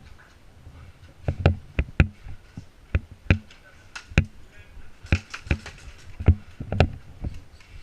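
A series of irregular sharp knocks and clicks, each with a dull low thud, about a dozen spread unevenly over several seconds.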